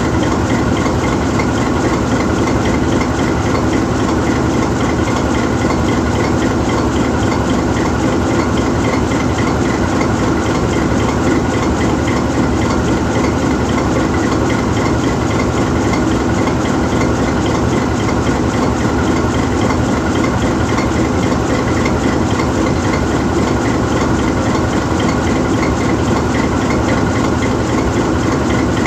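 GE U20C diesel-electric locomotive standing still, its 12-cylinder GE FDL diesel idling. The engine note stays steady, with a constant high whine above it.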